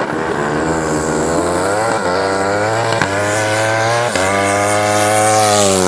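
Racing motorcycle engine accelerating hard through the gears. Its note climbs and drops back at each shift, about two, three and four seconds in.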